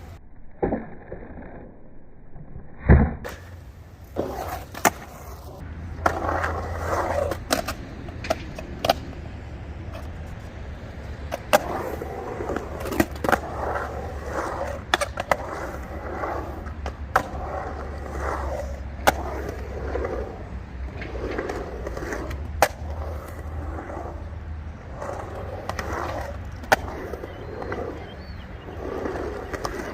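Skateboard rolling on pavement: a steady wheel rumble broken by frequent short sharp clacks, with one loud clack about three seconds in.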